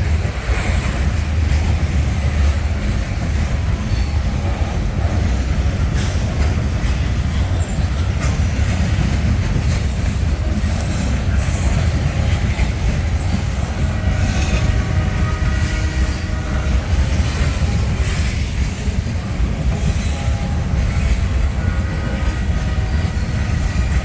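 Intermodal freight train passing at close range: a steady, loud rumble of wheels on rail with clicking over the joints. In the second half, locomotive horns sound in a few long blasts as the two trains honk at each other.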